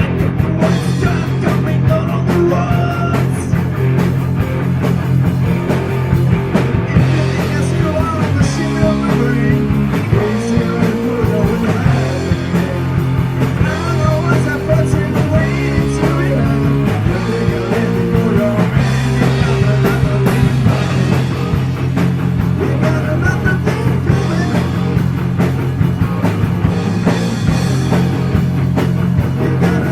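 Heavy metal band playing an instrumental passage: distorted electric guitars over bass and drums. Between about 8 and 19 seconds in, the riff shifts to a different pattern before returning to the opening one.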